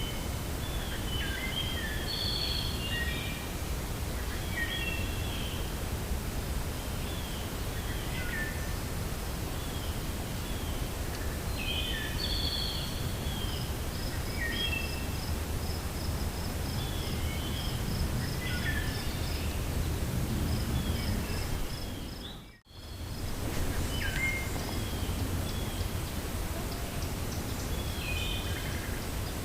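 Steady wind in a forest with songbirds singing short repeated phrases throughout, and a quick run of high chirps in the second half. About three quarters of the way through the sound drops out almost completely for a split second and comes straight back.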